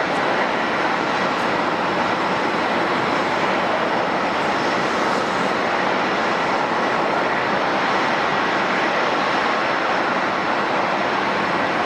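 Jet airliner engines running steadily: an even rushing noise with a faint, steady high whine.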